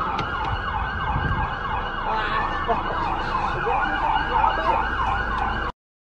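Emergency vehicle siren in a fast yelp, its pitch sweeping up about three times a second over low road rumble; it cuts off suddenly near the end.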